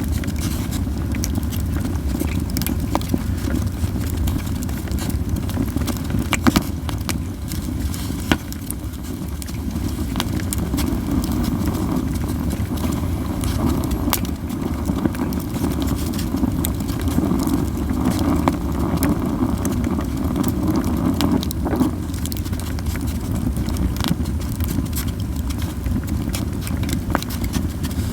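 Japanese yew wood burning in a campfire: a steady low rush of flame with moderate crackling, scattered pops and snaps throughout, one sharper pop about six and a half seconds in.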